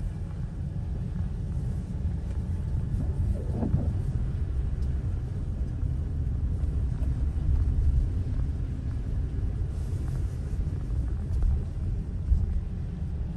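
Car driving, heard from inside the cabin as a steady low rumble of engine and road noise.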